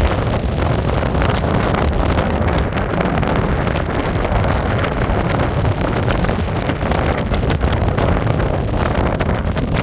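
Strong gusting wind buffeting the microphone, with a sheet in the wind giving frequent short cracks and snaps.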